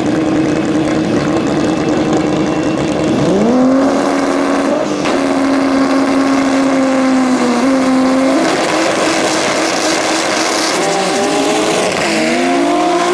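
Drag race car engine running hard. Its pitch rises about three seconds in and holds steady for several seconds, then climbs again near the end.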